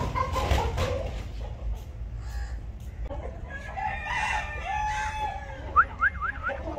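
A rooster crows once, a drawn-out call about halfway through. It is followed near the end by four quick, sharp rising chirps from poultry, after a brief rustle at the start.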